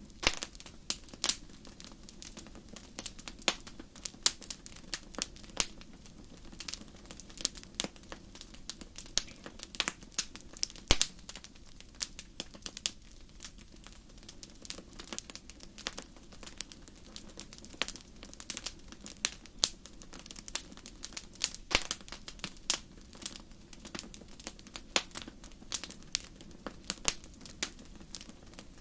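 Fireplace fire crackling: irregular sharp pops and snaps, several a second and of varying loudness, over a low steady rumble of the flames.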